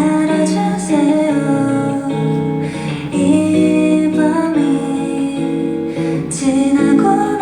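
Acoustic guitar playing the chords of a song in a live performance.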